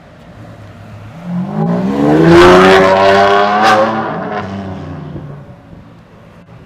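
Ferrari 599 Mansory Stallone's supercharged V12, through its Mansory sport exhaust, revving up hard as the car accelerates away. The note climbs in pitch and loudness from about a second in, with two sharp cracks near its loudest point, then fades as the car recedes.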